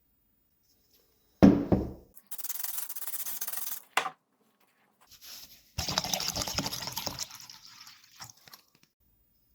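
A heavy thump, then two spells of rough scrubbing, like sanding or rubbing, with a sharp click between them.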